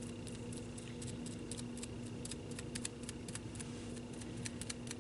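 Foam spouncer dabbing Mod Podge over napkin tissue on an ornament, making many light, irregular taps and clicks, with a steady low hum underneath.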